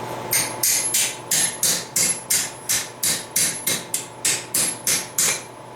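Blacksmith's hand hammer striking steel on an anvil in a steady rhythm, about three blows a second, each with a faint ring, stopping shortly before the end.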